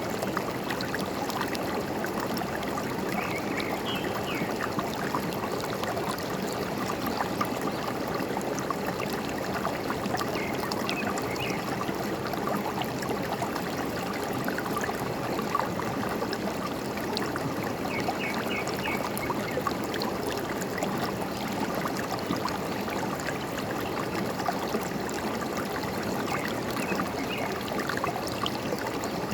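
Forest stream running and trickling steadily, with birds chirping now and then in short runs of three or four quick notes.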